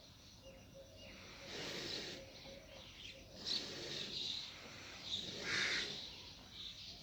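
Birds chirping in short calls every second or so over steady outdoor background noise, louder for a moment about two-thirds of the way in.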